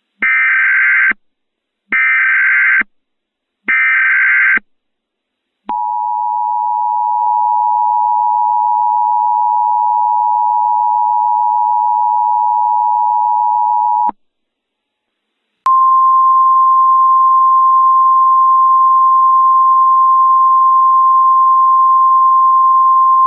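Emergency Alert System tones: three short buzzy bursts of the digital SAME header, then the steady two-tone attention signal for about eight seconds. After a short gap, a single steady NOAA Weather Radio alert tone begins and keeps sounding.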